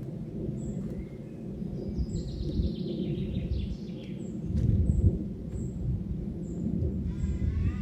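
Wind buffeting the microphone, an uneven low rumble throughout. About two seconds in, a bird sings a descending run of notes, and near the end harsh, cawing or honking bird calls begin.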